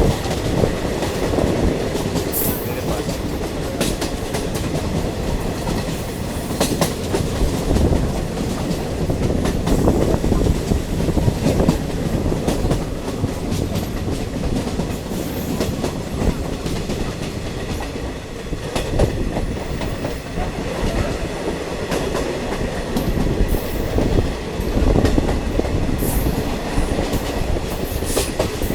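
Running noise of a diesel multiple unit train heard from on board: a steady rumble of wheels on rail with scattered clicks and knocks from the track joints.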